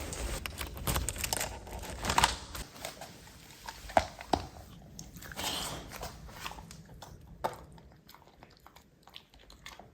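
Rain hiss for the first two seconds or so, then irregular crunching and clicking like chewing or biting, growing sparser and quieter toward the end.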